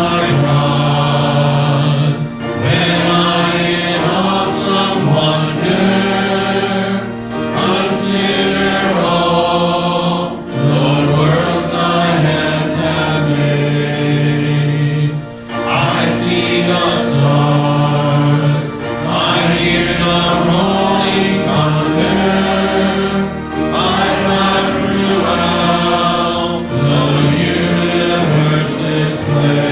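Choir singing a hymn in sustained phrases of a couple of seconds each, with short breaths between.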